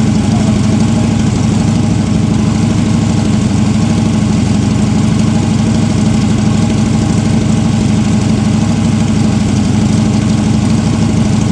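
Freshly built 1970 Chevy LT1 350 small-block V8 with a solid roller camshaft, running steadily at idle on an engine run stand, its exhaust going through mufflers.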